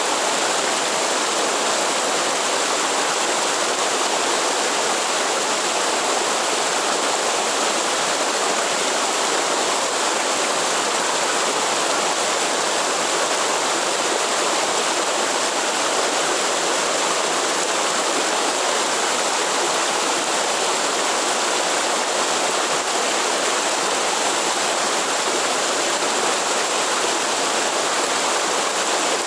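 Waterfall in the Atlantic Forest, water pouring and splashing in a steady, unbroken rush.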